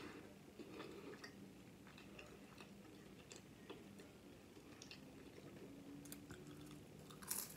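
Faint chewing of crunchy flour-tortilla pizza, with soft scattered mouth clicks over a faint low hum and a slightly louder sound near the end.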